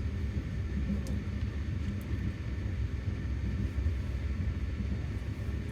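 A passenger train on the move, heard from inside a third-class sleeper carriage: a steady low rumble of the wheels on the track, with a few faint clicks.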